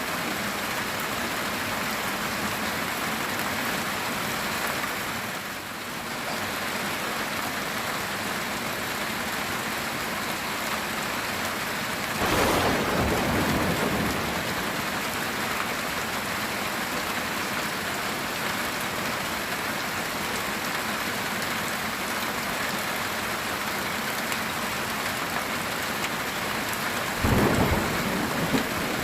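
Heavy rain falling steadily on a metal tin roof, with thunder breaking in twice: a clap about twelve seconds in that rumbles for a couple of seconds, and another near the end.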